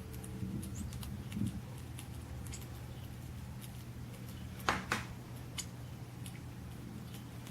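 Short, faint high chirps and ticks from a bird video for cats playing, over a steady low hum. Two sharp taps come close together a little past the middle.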